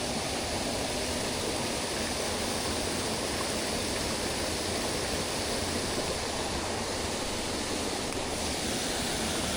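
Mountain headwater stream rushing steadily over rocks and small falls, a constant even wash of water.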